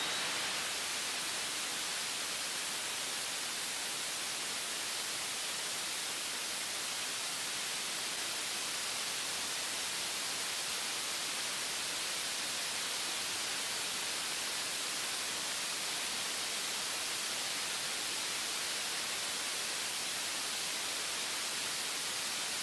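Steady hiss like static or white noise, even and unchanging, with no tone or rhythm in it.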